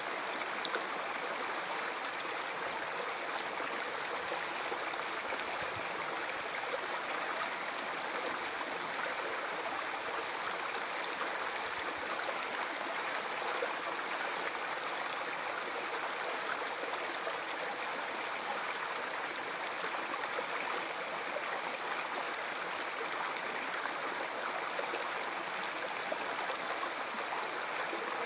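River water flowing, a steady, even rush without breaks.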